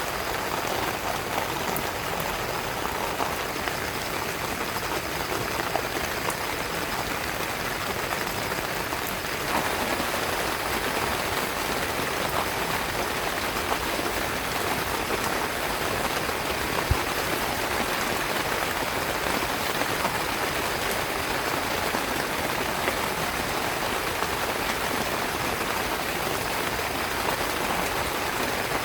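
Heavy rain falling steadily on a tent, growing a little heavier about a third of the way in, with one faint knock midway.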